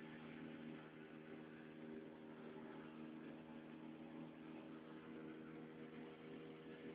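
Motorboat engine running steadily, a faint, even drone.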